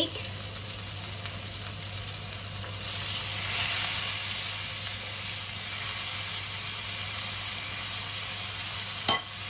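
Tenderloin steak sizzling steadily in a hot pan, the sizzle growing louder for a moment about three and a half seconds in. A single short knock near the end.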